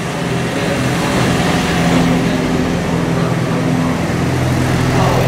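Container wagons of a freight train rolling past: a steady rumble with a low hum running through it.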